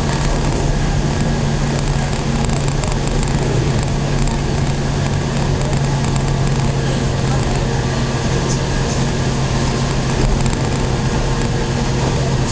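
Local train running steadily, heard from inside the passenger car: an even rumble of wheels on rail with a constant low hum.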